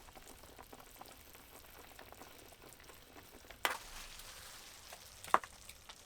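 A pot of stew simmering, a faint steady bubbling crackle. Two sharp clicks come through it, the louder one near the end.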